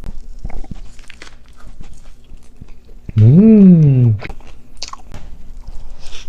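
Close-miked eating of sushi: a bite followed by chewing, heard as many small clicks and crunches. About three seconds in, a loud hummed note rises and then falls in pitch for about a second.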